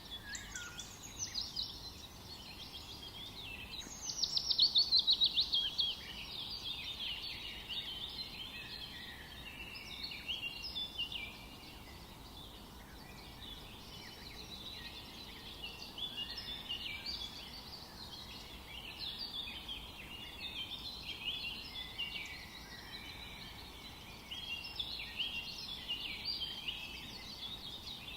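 Several songbirds singing and calling over one another, with a faint steady hiss beneath. The loudest is a rapid trill of falling notes about four seconds in, lasting about two seconds.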